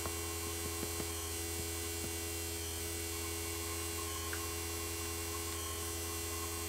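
NAVAC vacuum pump running steadily with a low, even hum, valved off from the refrigeration system it is evacuating. A few faint ticks sound in the first two seconds.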